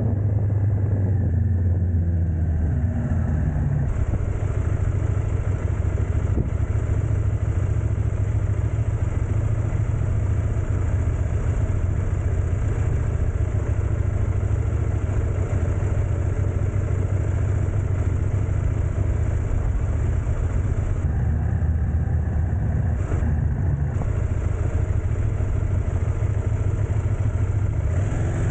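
Motor vehicle engine running steadily with a low rumble and a light even noise over it, as when driving at a constant pace.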